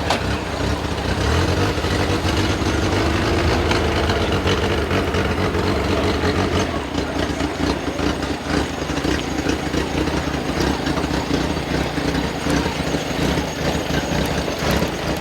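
Vintage car engine idling steadily.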